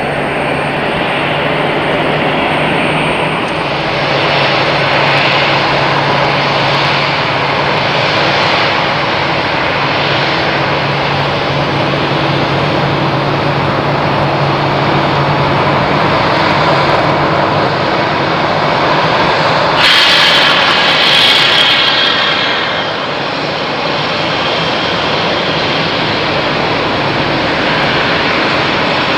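Jet airliner engines: a steady loud rush with a low hum underneath. About two-thirds of the way through there is a brief louder, hissier surge lasting two or three seconds.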